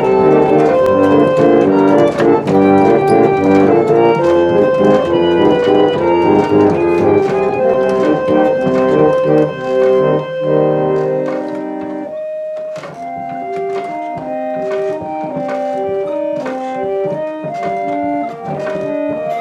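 Restored pump organ (reed organ) being played as a test after reassembly: full sustained chords, then about twelve seconds in a quieter, lighter passage of short melody notes over held tones, with light clicks.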